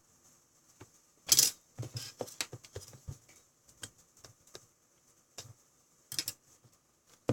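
Irregular clicks and light taps of small hard objects being handled. There is a louder clatter about a second and a half in, another near the end, and a sharp knock at the very end.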